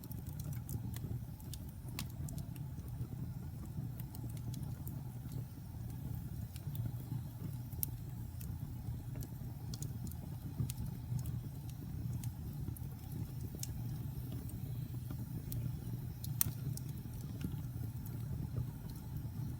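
Wood fire in a fireplace burning with a steady low rumble and scattered sharp crackles and pops, one louder pop late on.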